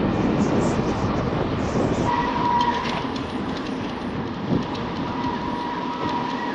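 Bicycle brake squealing in a steady high tone from about two seconds in, strongest briefly and then fainter, over wind and tyre noise while riding downhill. The brake had begun squealing after the axle was refitted.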